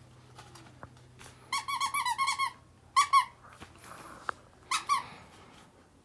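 Rubber squeaky toy squeezed again and again in short squeaks: a quick run of about eight, then two, then two more near the end.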